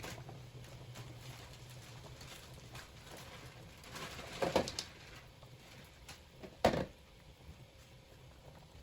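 Cookware being handled at a simmering pot: a quick cluster of clatters about four and a half seconds in and one sharp knock about two seconds later, over a low steady hum.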